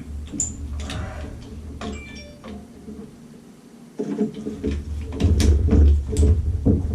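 Scattered knocks and clicks of objects being handled, over a low rumble that drops away about two and a half seconds in and comes back louder near the middle.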